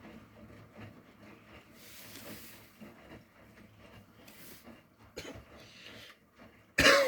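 Bosch tumble dryer and Miele washing machine running, a low steady hum with faint scattered knocks from the tumbling load. Just before the end a loud, short burst from a voice, like a cough.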